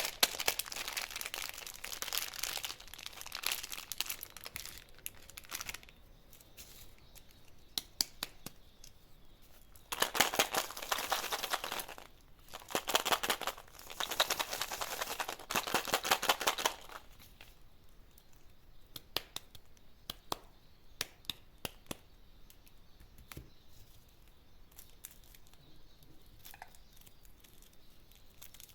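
Candy wrappers crinkling and tearing open in three dense stretches over the first two-thirds, followed by scattered light clicks and taps.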